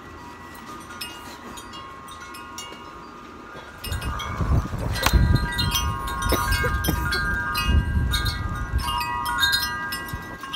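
Wind chimes ringing, with several overlapping tones sounding together. Wind buffets the microphone from about four seconds in.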